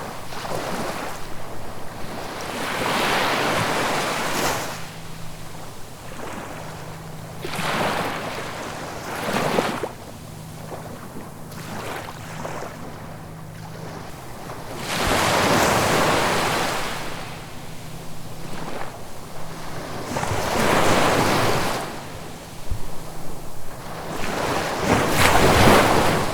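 Ocean waves breaking and washing onto the shore. Each wave swells up as a rush of surf and then fades, every few seconds, with the biggest surges about halfway through and near the end.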